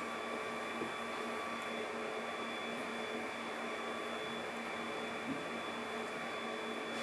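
A machine running steadily, a constant hum with a whine over it and no change in speed, with two faint clicks about a second in and about five seconds in.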